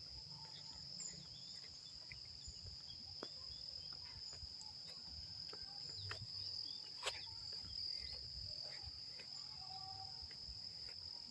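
Crickets giving a steady high-pitched trill, with a low rumble and a few faint scattered clicks underneath.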